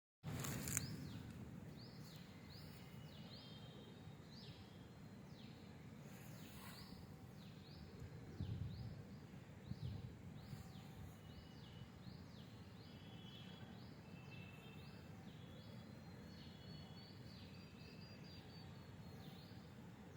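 Faint outdoor ambience with birds chirping: many short, high chirps that fall in pitch, about two a second, mixed with a few brief whistled notes. A click comes just after the start, and a couple of low thumps come near the middle.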